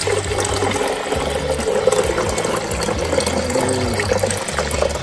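Water being poured into a coffee maker's water reservoir: a steady splashing pour that stops suddenly right at the end.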